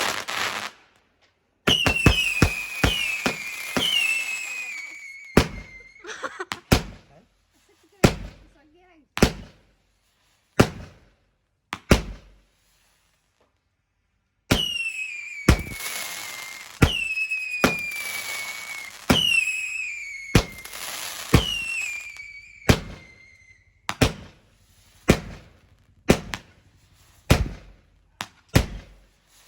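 Consumer fireworks going off: a rapid string of sharp bangs with several whistles that each fall in pitch, coming in two bursts with a brief lull between them.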